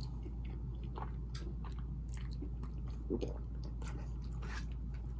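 A person chewing a forkful of food close to the microphone, with scattered small wet mouth clicks and light crunches.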